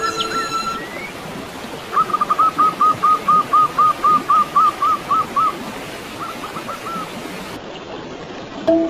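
A bird calling over steady running water: a fast run of about a dozen short, identical notes at about four a second, then a few fainter ones. Music fades out at the start, and rindik mallet music comes back in at the very end.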